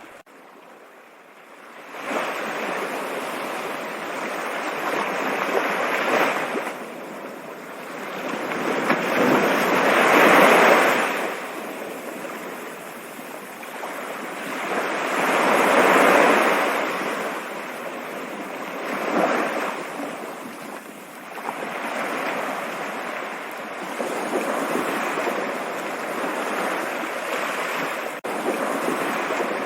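Flowing water, a continuous rushing like a stream, that fades in over the first two seconds and then swells and eases irregularly, loudest about ten and sixteen seconds in.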